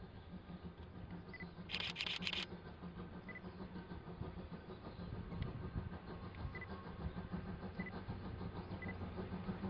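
Paleo Express train's low, steady rumble growing slowly louder as it draws near. A quick burst of camera shutter clicks comes about two seconds in.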